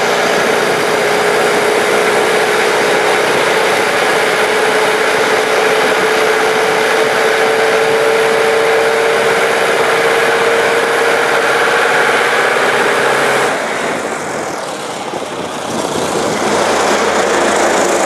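Ford Model T four-cylinder flathead engine running at full throttle under load on a water-brake dynamometer, its note rising slowly as it gains RPM toward 2,000. About thirteen seconds in it is shut down and the engine note cuts off; a steady noise carries on afterwards.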